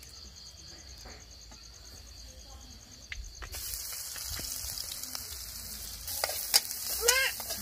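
About halfway through, chopped food drops into hot oil in a metal wok over a wood fire and starts sizzling loudly and steadily. Near the end a metal spatula stirs and scrapes the food, with sharp clacks and scraping against the wok.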